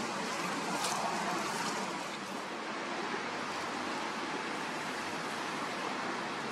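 Strong wind blowing steadily: an even rushing noise with no distinct events.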